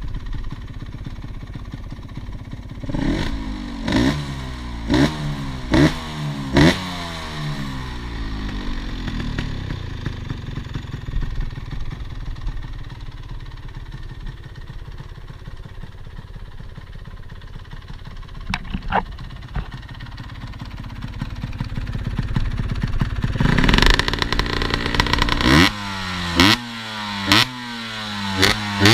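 Cagiva Planet 125's two-stroke single-cylinder engine with a full Giannelli exhaust, idling and revved in quick blips, its revs falling back after each one. There is a run of blips about three to seven seconds in, a long idle, then a longer rev near the end followed by more quick blips.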